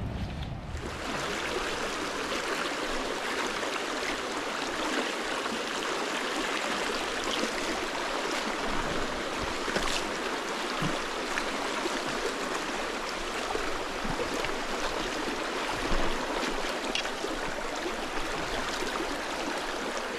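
Steady rush of a shallow trout stream running through a riffle, with a few faint ticks and a soft knock about two-thirds of the way through.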